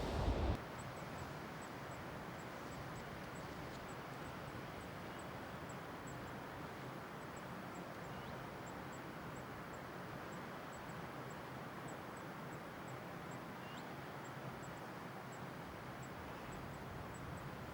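Steady outdoor background hiss, with a faint high ticking about twice a second and two brief faint chirps.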